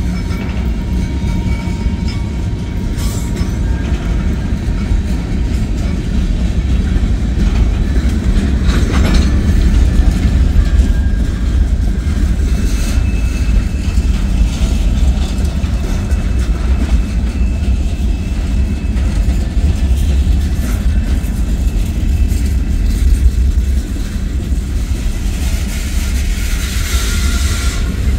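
Freight train cars (covered hoppers and tank cars) rolling past at close range: a steady low rumble of steel wheels on rail, with occasional sharp clicks and a faint thin high squeal at times.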